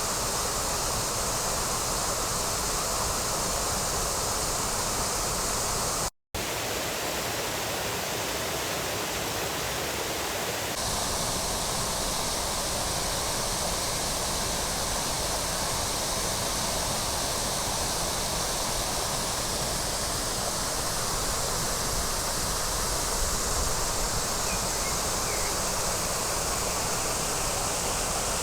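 Waterfall's steady rush of falling water, broken once by a split second of silence about six seconds in.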